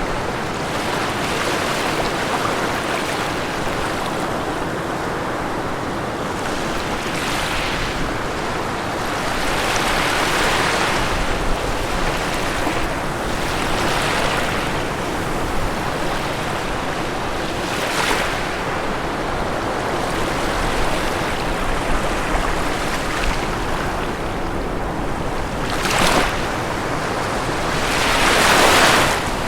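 Ocean waves washing onto a shore: a steady rushing surf, with a wave breaking louder every several seconds and the biggest near the end.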